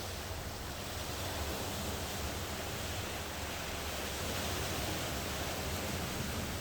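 Ocean surf washing on the shore: a steady rushing wash that swells slightly in the middle and eases off again.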